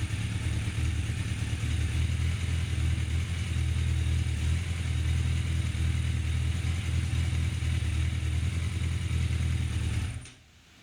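Yamaha FZ750 inline-four engine idling steadily, then shut off about ten seconds in.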